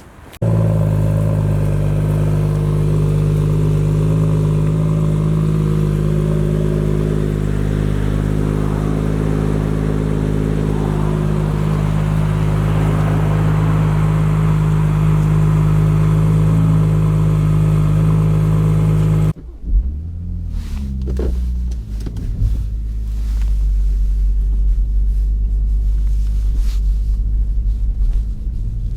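BMW M140i's 3.0-litre turbocharged straight-six on its stock exhaust, idling with a steady, even hum. About two-thirds of the way through, the sound cuts abruptly to a deeper, muffled rumble with a brief rise and fall in revs.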